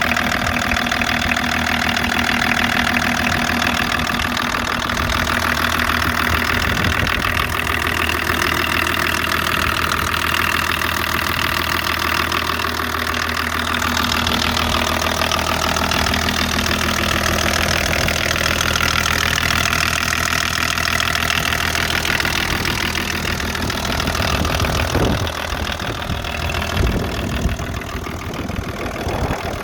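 BMW-built 2.4-litre straight-six turbo diesel in a 1984 Lincoln Continental idling steadily.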